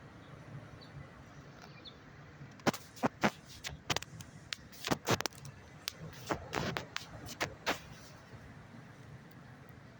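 Steady low traffic rumble from a busy road junction, with a run of irregular sharp clicks and knocks from about three to eight seconds in.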